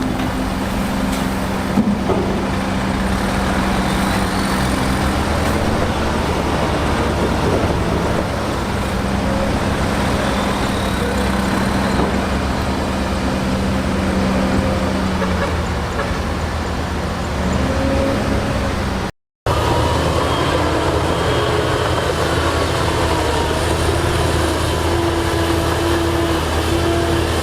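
Heavy diesel engine of earthmoving machinery running steadily under load. A brief total dropout about two-thirds of the way through is followed by a different engine note.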